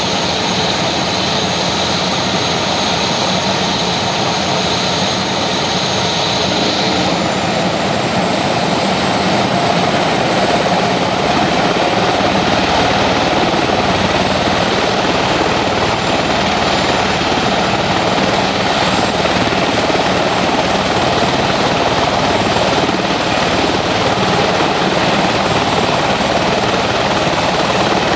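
Helicopter rotor and engine running steadily and loudly in flight. The sound shifts slightly about seven seconds in, losing some of its high hiss and gaining low rumble.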